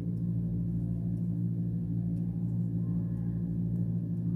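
A steady low hum with a few fixed tones, unchanging throughout.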